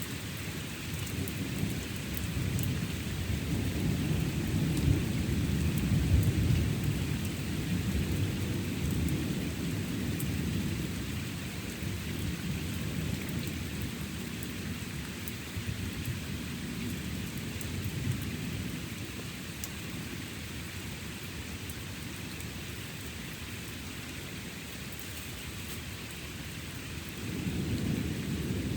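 Steady rain with rolling thunder. A long, low rumble builds from about two seconds in, is loudest around six seconds and fades away over several seconds. Another rumble starts near the end.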